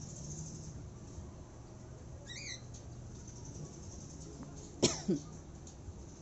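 Pet parrots in an aviary: a brief run of quick, high chirps, then two loud, short, harsh calls in close succession near the end.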